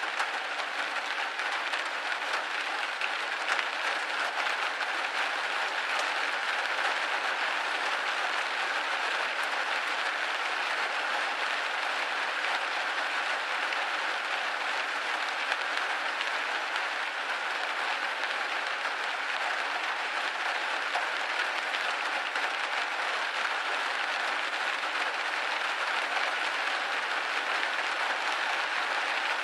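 Steady rain hitting a windowpane: a dense, even patter of drops with no let-up.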